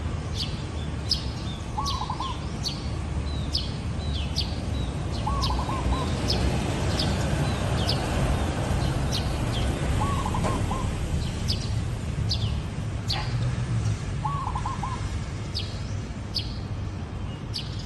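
Zebra dove cooing: four short rolling, trilled phrases about four seconds apart. Other small birds give sharp high chirps throughout, over a steady low background rumble.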